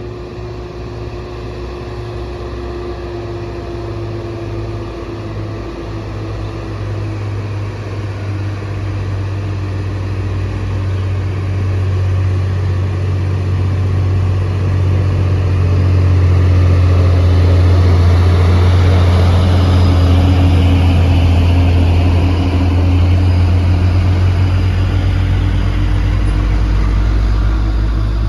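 Heavy diesel truck engine labouring up a steep climb, a deep steady drone that grows louder as the truck approaches and draws level about two-thirds of the way through.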